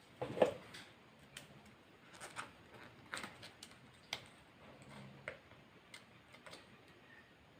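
Close-miked eating sounds: irregular crisp clicks and short crunches of someone eating fried chicken, the loudest about half a second in.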